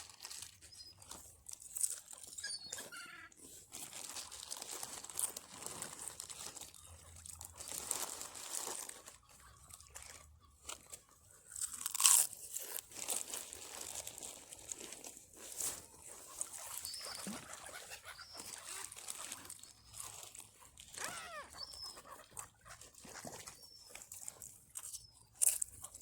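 Crunching and crackling of potato crisps and their packet being handled, with scattered short bird calls.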